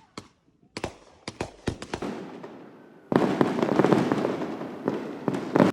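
Fireworks going off: a quick run of separate sharp bangs, then, about three seconds in, a dense crackling barrage lasting about two and a half seconds that ends in one loud bang.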